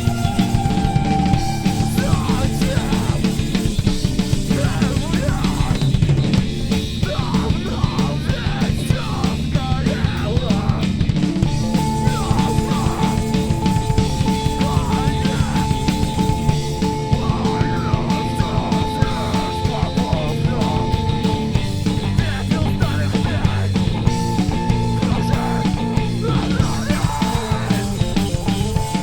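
Rock band playing live: drum kit, electric guitars and bass in a dense, driving passage. A long held high note sits over the band for several seconds in the middle.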